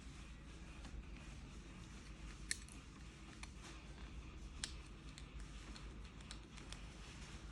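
Faint clicks and taps of small kettle parts being handled and fitted, with two sharper clicks about two seconds apart, over a low steady hum.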